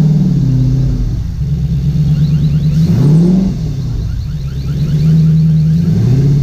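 V8 engine swapped into a Porsche 986 Boxster, running at low revs under light load as the car creeps forward. The revs rise briefly in two short throttle blips, about three seconds in and again near the end.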